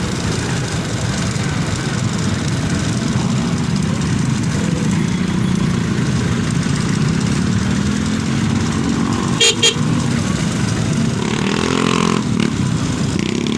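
Motorcycle riding on the road, with steady engine and wind noise and the engine pitch rising and falling. About nine and a half seconds in there are two short horn beeps in quick succession.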